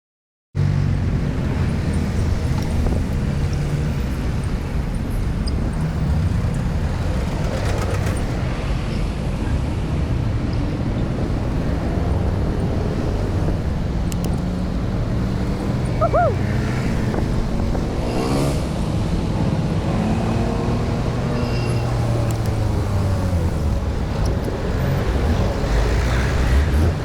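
Road traffic heard from a moving bicycle: cars and motorbikes running by under a steady low rumble. A short high chirp sounds past the middle, followed by a vehicle's engine revving as it passes.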